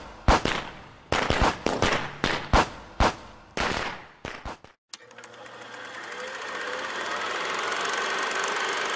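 A run of about ten sharp cracks at uneven intervals over the first four and a half seconds. After a brief break, a steady rushing noise swells up and holds.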